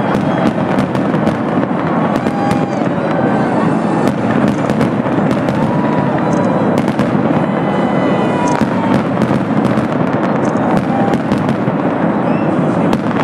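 Fireworks display going off in a dense, continuous barrage of bangs and crackling, with crowd voices mixed in.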